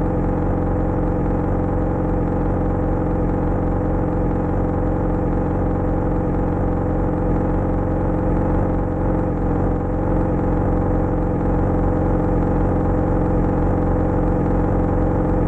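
Yamaha XJ6's inline-four motorcycle engine running at steady, unchanging revs.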